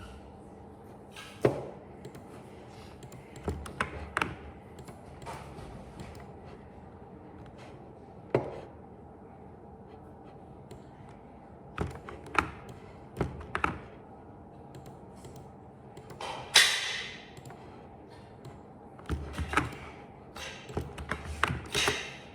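Scattered light knocks and taps at irregular intervals. About two-thirds of the way through there is one short harsh rasp, and a quick run of knocks comes near the end.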